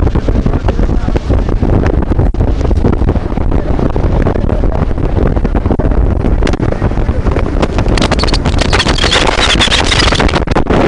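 Wind buffeting the microphone over the rumble of a moving truck, with a louder hissing gust about eight seconds in.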